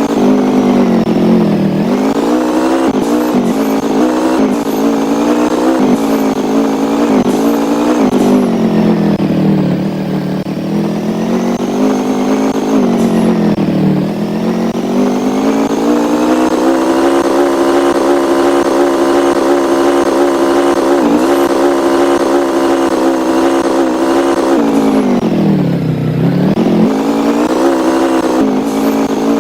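A vehicle engine running under way, its pitch dipping and climbing back several times, holding steady for a long stretch in the middle.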